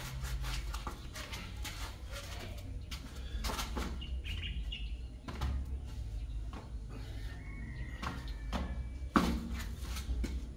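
Birds chirping, with a short chirp about four and a half seconds in and a thin gliding whistle near the end, over a string of short knocks and clatters close by; the loudest knock comes about nine seconds in.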